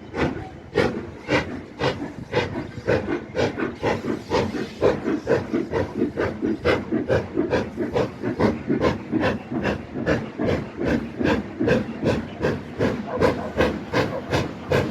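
Black 5 steam locomotive No 45212's exhaust beats as it pulls away. The even chuffs quicken from about two to about three a second as it gathers speed, over a steady steam hiss.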